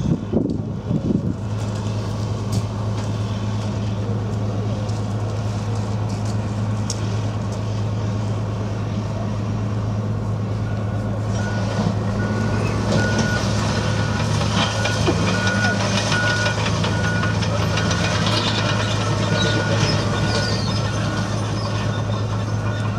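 Type 94 amphibious mine-laying vehicle's engine running with a steady low drone. From about halfway through, a warning beeper sounds repeatedly, about two beeps a second, over a hiss.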